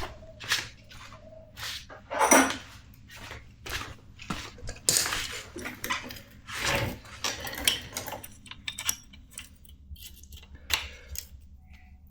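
Metal hand tools clinking and knocking irregularly as a shifter (adjustable spanner) is fetched and put to work on the spark plug, with the loudest knocks about two, five and seven seconds in.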